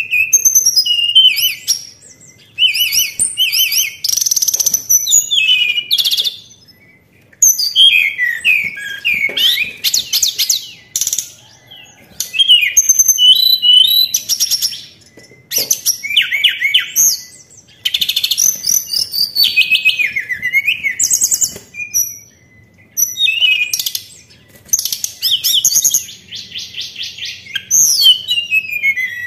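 Tledekan songbird singing: bouts of quick, high, sliding chirps and trills, each lasting one to three seconds, with short pauses between them. This is a lure recording, played to draw caged birds into song.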